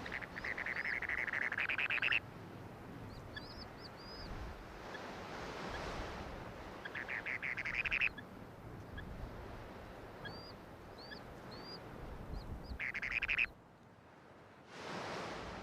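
Spoon-billed sandpipers calling: short high, upturned peeps in small runs, and three bursts of rapid buzzy trilling, over a steady hiss of wind.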